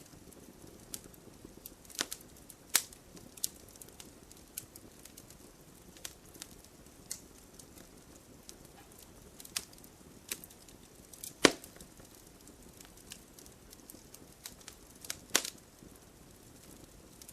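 Wood fire crackling in a fireplace: scattered sharp pops and snaps over a faint hiss, the loudest pop about eleven seconds in.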